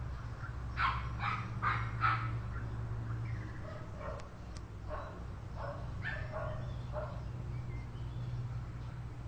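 Dog barking: a quick run of four barks about a second in, then several more spaced barks later on, over a steady low hum.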